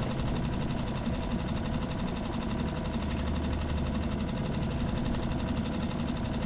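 Small boat motor running steadily at low speed, an even hum with a fine rapid patter.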